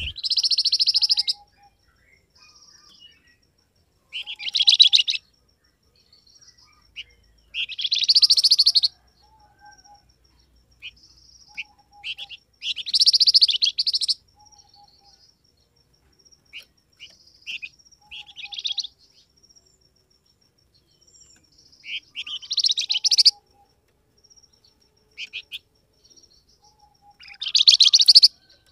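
Songbird known in Indonesia as 'flamboyan' singing in loud, rapid, high-pitched bursts of about a second each, repeated every four to five seconds, with soft short chirps between. A fainter, lower note repeats about every two seconds in the background.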